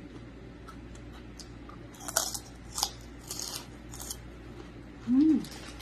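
Close-up crunchy chewing of crisp chicharron (fried pork rinds): a few sharp crunches about two to four seconds in, then a short closed-mouth "mm" near the end.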